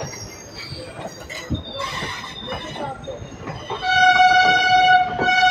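Rumble and clatter of an Indian Railways express train's coaches rolling past on the adjacent track. Nearly four seconds in, a train horn sounds one steady note that lasts about two seconds.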